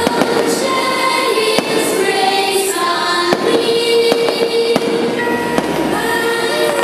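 Fireworks going off in a rapid run of bangs and crackles over loud patriotic music with long held notes.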